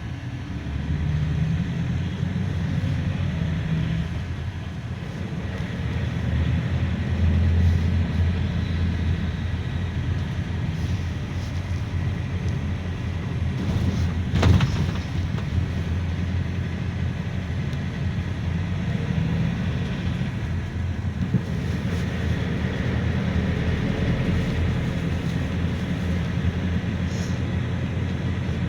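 GAZelle Next minibus driving, heard from inside: a steady low engine and road drone, with one sharp knock about halfway through.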